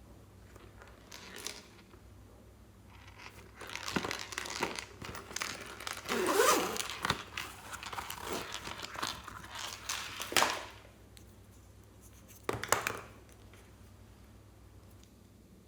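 Slime being squished and stretched by hand: a dense run of short sticky clicks and squelches from about four seconds in to about ten and a half, loudest in the middle, then one short burst near thirteen seconds.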